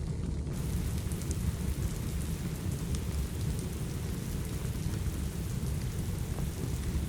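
Steady rain with a heavy low rumble underneath, dotted with the small sharp pops and crackles of a wood fire in a fireplace. The higher hiss fills in about half a second in.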